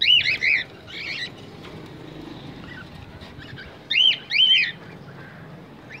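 Cage birds giving short, arched chirps: a quick cluster at the start, a couple of faint ones in the middle, and a louder run of three about four seconds in.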